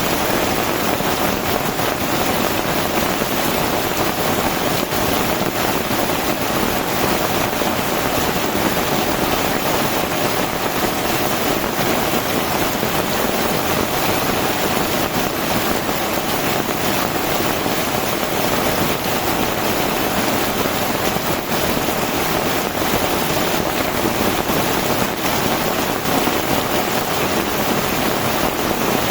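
Heavy tropical rain falling steadily, a dense, even hiss made of countless drops with no let-up.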